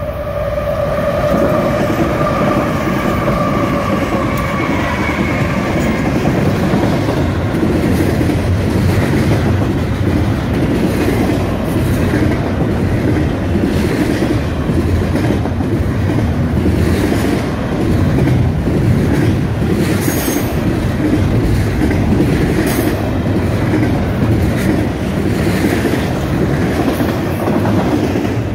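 A train passing close by on the main line, a steady loud rumble of wheels on rail with a regular clickety-clack. At the start a high tone falls slightly in pitch and fades out within about five seconds.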